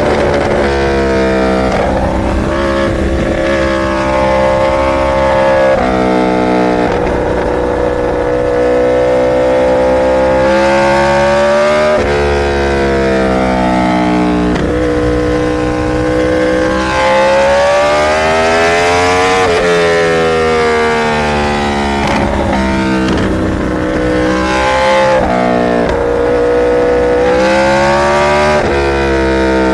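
Litre-class inline-four superbike engine being ridden hard, its pitch climbing and then falling back again and again as it is worked through the rev range and the gears, with sharp drops at the shifts.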